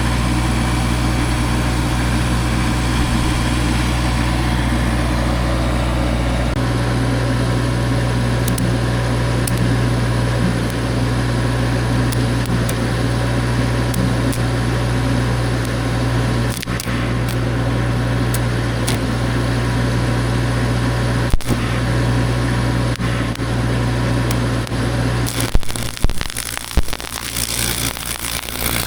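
An engine idling steadily, its low hum changing slightly about six seconds in. A few sharp knocks and clatter near the end.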